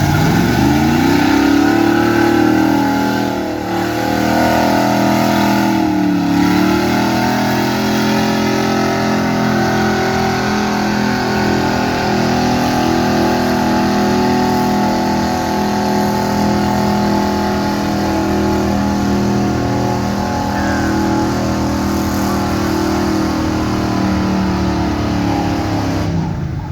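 A street-class gas Chevy pickup engine pulling at high revs in a truck pull. It revs up hard at the start and dips twice in the first six seconds. It then holds near full throttle for about twenty seconds before backing off near the end.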